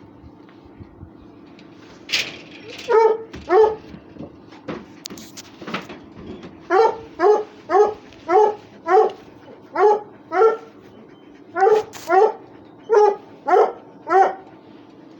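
Russian hound barking: two barks about 3 s in, then a steady run of barks at about two a second.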